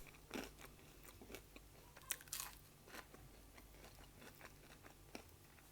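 Faint crunching and chewing of a fried, battered onion ring, with a few crisp bites in the first three seconds.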